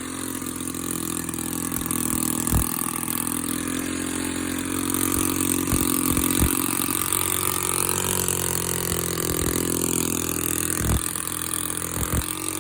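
Small engine running just after a cold start on starting fluid and gasoline, pretty loud through its open exhaust manifold. Its speed sags and picks up again around the middle, and a few sharp pops or knocks come through.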